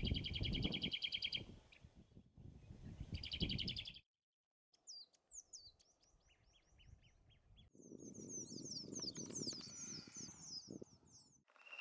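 Songbirds singing in several short passages with sudden breaks between them. First a rapid, high, buzzy trill, heard twice. Then a run of sharp, high, falling notes, then a busy stretch of high twittering.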